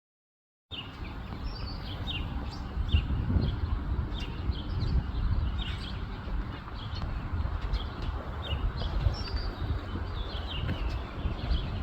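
Small birds chirping, many short falling notes repeated several times a second, over a steady low rumble; the sound starts abruptly just under a second in.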